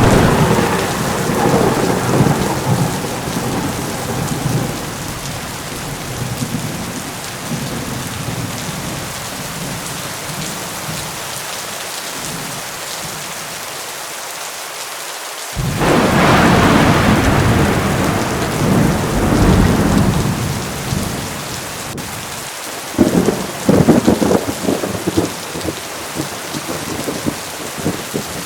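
Heavy rain falling steadily, with thunder rumbling three times: a long rolling peal at the start, a louder one that breaks in suddenly just past halfway and rumbles for about five seconds, and a crackling peal near the end.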